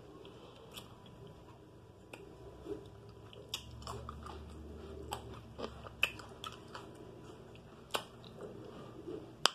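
A person chewing food with the mouth closed, with scattered soft smacks and clicks about once a second.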